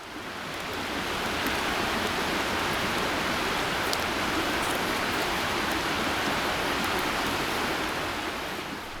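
Steady rushing noise, like rain or running water, with a few faint clicks; it fades in at the start and fades out at the end.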